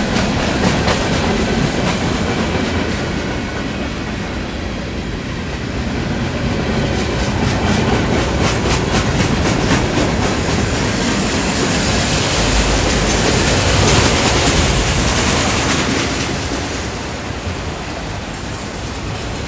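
Norfolk Southern freight train's cars rolling past at a crossing, a steady rumble with wheels clacking over the rails. There is a run of rapid clicks in the middle, and the rumble eases near the end.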